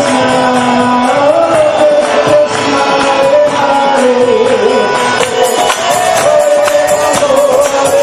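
Devotional temple music, a kirtan: voices singing over held steady instrumental tones, with jingling metal percussion and drums keeping a steady beat.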